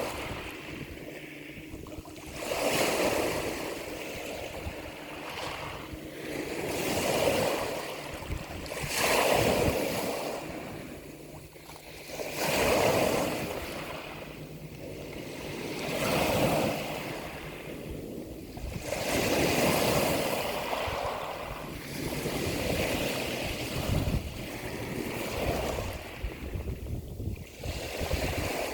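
Sea waves washing in, a noisy surge swelling and falling away every three to four seconds.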